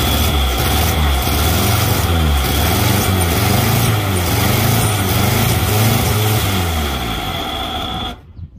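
Morris Traveller's BMC A-series four-cylinder petrol engine running after 44 years standing, fed from a squirt of fuel poured into the carburettor bowl, with the throttle worked by hand. The revs rise and fall unevenly, with a steady high whine over the engine note, and it stops abruptly near the end.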